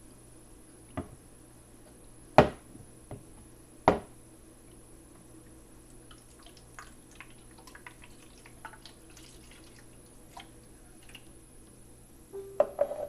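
Scattered knocks and light clicks: a few sharp knocks in the first four seconds, then faint irregular ticks, and a cluster of knocks near the end.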